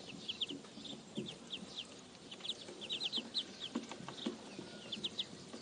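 Birds calling with many quick, short downward chirps, often in pairs, over scattered lower, softer calls.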